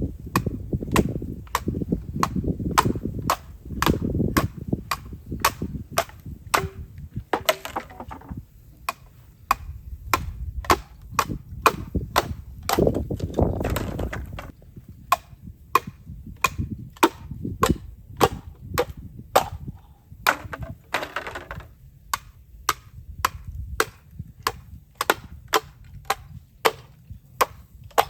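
Bamboo being chopped and split, a long, steady run of sharp cracking strikes at about two a second, over a low rumble.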